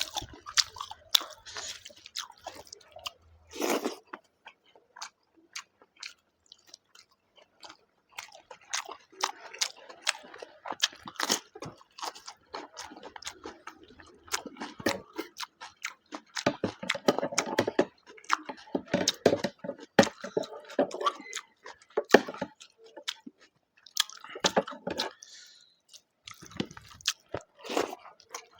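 A person eating rice with mutton-and-potato curry and salad close to the microphone: irregular wet chewing and mouth clicks, with crunchy bites. There is a lull of a few seconds near the start.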